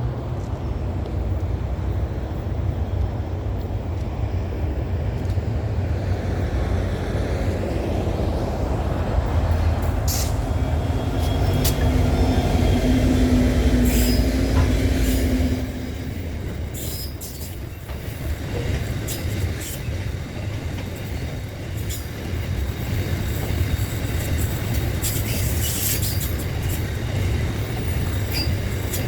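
Train running on the rails: a steady low rumble with a humming tone in the middle that drops off suddenly a little past halfway. Lighter rail noise with scattered clicks follows.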